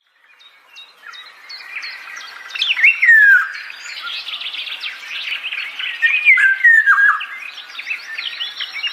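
Several birds chirping and calling together in a dense chorus, with a louder whistled call stepping down in pitch about three seconds in and another near seven seconds.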